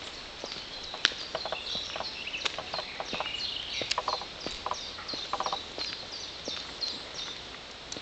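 Birds chirping: many short, high calls several a second, with a few lower, buzzier calls around the middle, over faint footsteps on a paved path.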